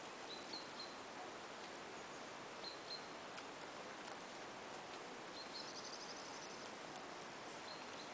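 Open-air hiss with a small bird chirping now and then: short high chirps every two or three seconds, and a quick trill a little past halfway.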